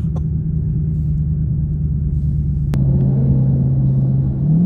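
Car engine droning steadily at cruise, dropping a little in pitch partway through, then rising as it accelerates near the end, with a single short click about two and a half seconds in.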